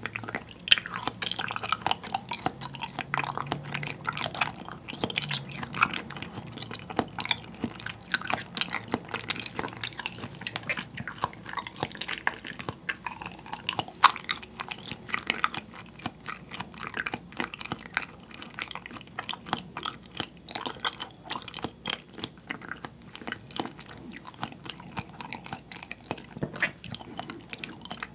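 Close-miked chewing of soy-sauce-marinated salmon and rice: a steady run of small clicks and smacks from the mouth. The salmon's flesh has firmed up and turned chewy from curing in soy sauce, which draws out its moisture.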